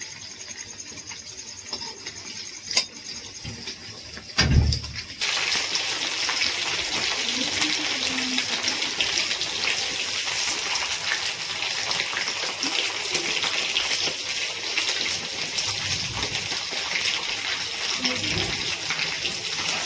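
A thump, then water starts suddenly from a tap about five seconds in and runs on steadily and hard, as into a bucket or sink.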